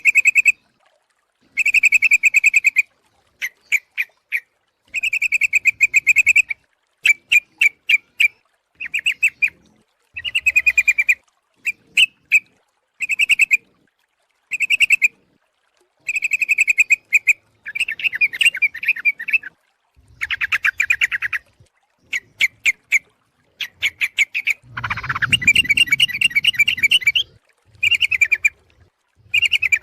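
Yellow-vented bulbul (trucuk) calls, as used in a bird-lure recording: repeated short bursts of rapid bubbling chatter, with brief pauses between them and a longer, denser outburst near the end.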